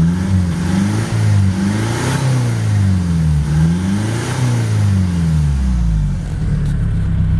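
Kia Sorento 2.5 CRDI four-cylinder turbodiesel, straight-piped with no catalytic converter or middle box and only the rear silencer, revved twice. The pitch climbs and falls each time, then settles back to idle near the end.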